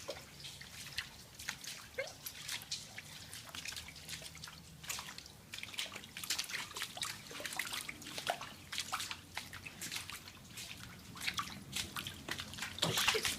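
Water leaking from failed plumbing, dripping and splattering in many irregular drops.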